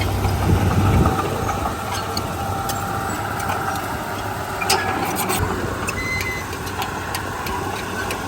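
Heavy diesel machinery running, with a steady low engine hum that drops away about a second in, and a few sharp clicks and knocks near the middle.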